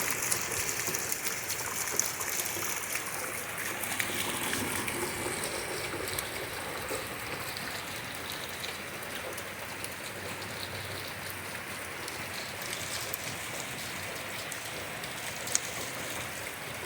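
Heavy rain falling and splashing, with runoff water streaming from gutters that can't keep up with the downpour. Scattered drop hits throughout, and one sharper tap near the end.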